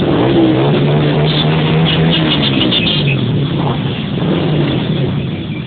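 Motorcycle engines running as the rally rides past, one engine note holding steady and then dropping about three seconds in. A quick run of short high-pitched beeps sounds over it from about one to three seconds in.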